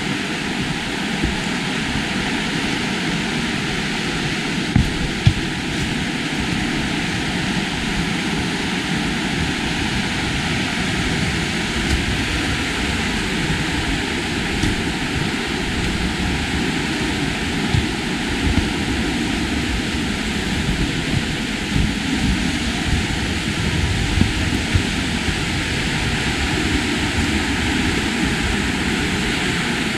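Steady outdoor rushing noise with a fluttering low rumble and a few short knocks.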